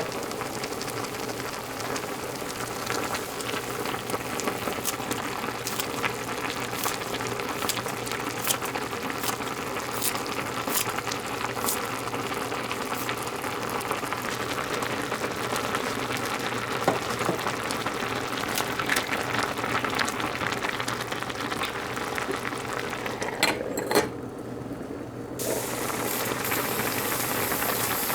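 Food cooking on the stove: a steady sizzling, bubbling hiss with many sharp crackles, breaking off briefly near the end before it returns.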